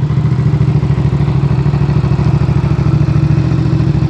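Suzuki SV650 90-degree V-twin, built out to 662 cc with racing pistons and camshafts, idling steadily through an M4 exhaust with an even, fast pulse.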